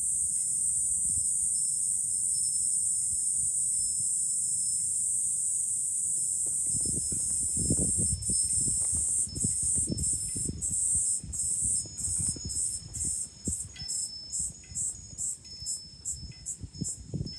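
Cicada chorus with a loud steady buzz that, about eight seconds in, breaks into pulses that come faster and faster toward the end. Wind gusts rumble on the microphone through the second half.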